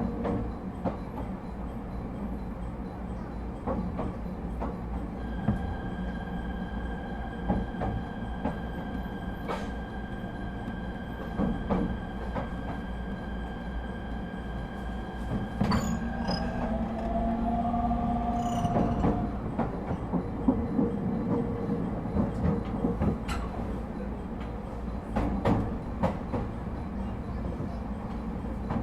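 Cab-interior running sound of an ET127-series electric train with a Toyo IGBT-VVVF drive slowing on approach to a station. A steady high inverter whine holds for several seconds and cuts off about two-thirds of the way in, followed by a short shift in tone. Wheels click over rail joints throughout.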